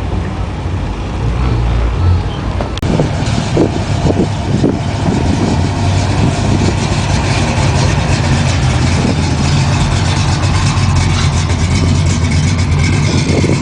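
Motor vehicle engine running close by, loud and steady, with background noise from the crowd.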